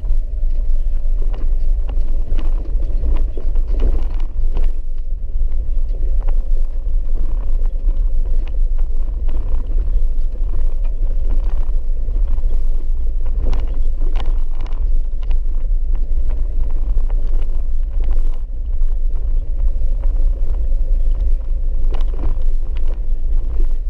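Four-wheel-drive vehicle driving on a rough dirt road: a steady low rumble with scattered knocks and rattles.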